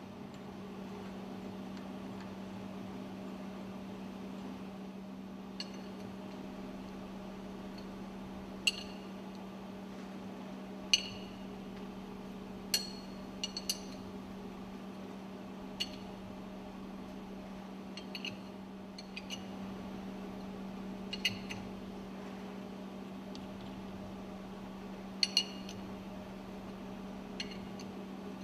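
Steel tools clinking and tapping on the fuel pump's metal parts as the top cover's dismantling screws are worked: scattered sharp metallic clinks with a short ring, irregularly spaced, over a steady low hum.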